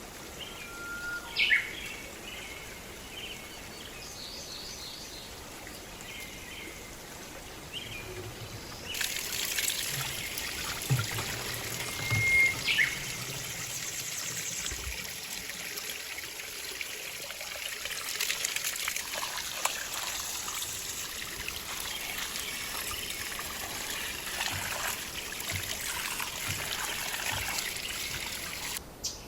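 Spring water trickling and running, starting about nine seconds in, with a few bird chirps early on and again over the water.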